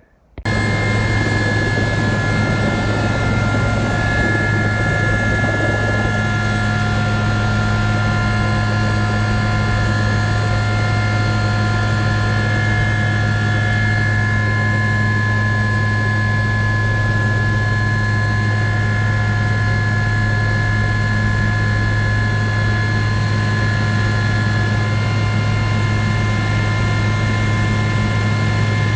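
SA342M Gazelle helicopter running steadily, starting abruptly: a constant low drone with steady higher tones and a thin high whine over it.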